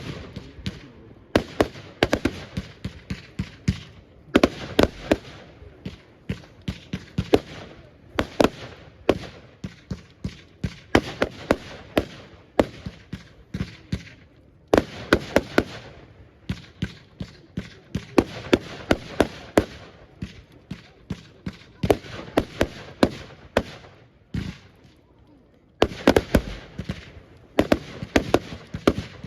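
Fireworks display: volleys of sharp bangs and crackling come in clusters every second or two, with brief pauses between them and a longer lull a few seconds before the end.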